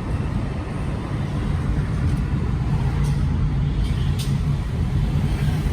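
Steady low rumble and hum of a running vehicle, with two faint clicks about three and four seconds in.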